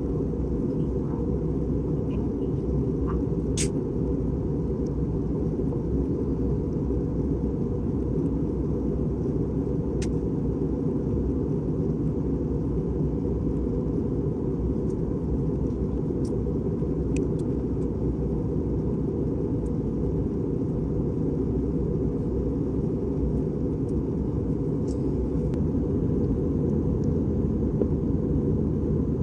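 Steady low rumble of an Airbus A320 in flight, engine and airflow noise heard inside the passenger cabin, with a few faint clicks.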